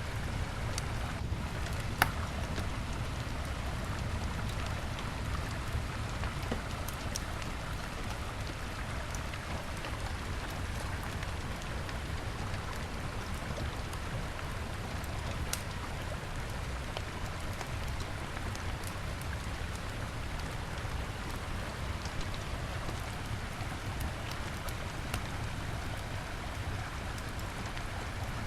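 Wood bonfire crackling with scattered sharp pops, one louder pop about two seconds in, over the steady rush of a river.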